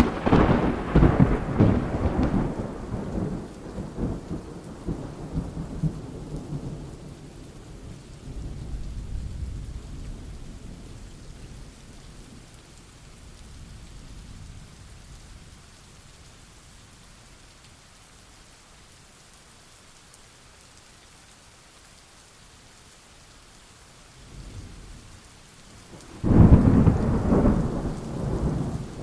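Steady rain with two thunderclaps: a sharp crack at the start rolling into a rumble that fades over several seconds, then steady rain hiss, and a second loud clap with rumble near the end.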